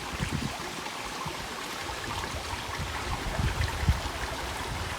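River water flowing over rocks in a steady wash, with a few low rumbles about three to four seconds in.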